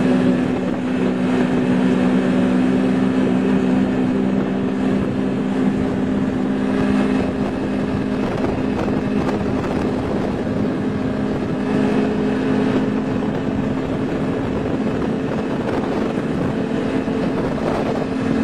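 Snowmobile engine running at a steady speed, a constant drone over a rushing noise.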